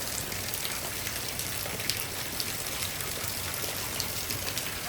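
Torrential downpour: heavy rain falling in a steady hiss, with scattered sharper drop taps.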